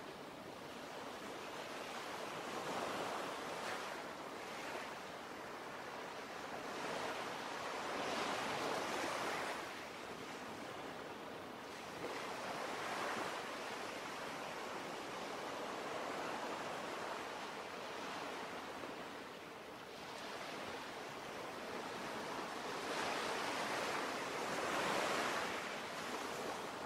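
Ocean surf: waves washing in, a steady hiss that swells and ebbs every few seconds.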